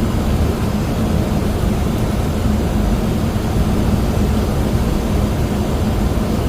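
Steady cockpit noise of a Boeing 737 on approach: airflow and engine noise with a constant low hum.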